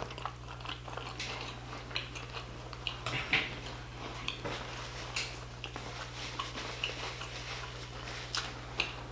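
Close-miked chewing of a mouthful of rasta pasta and shrimp: soft wet mouth smacks and small clicks, over a steady low hum.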